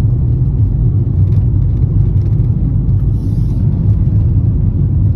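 Car interior noise while driving: a steady low rumble of engine and tyres on the road.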